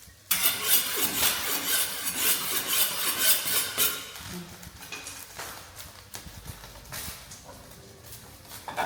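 Food sizzling and being stirred in a pan: a loud hiss with scraping starts suddenly about a second in and lasts about three and a half seconds, then gives way to scattered clinks of utensils on the pan.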